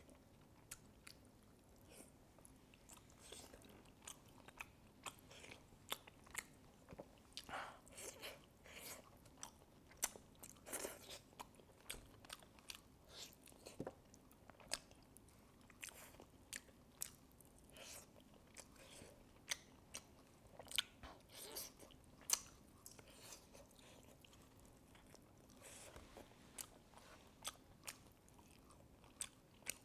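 Close-miked eating: a person chewing and biting food, with quiet, irregular moist clicks and small crunches, a few of them sharper.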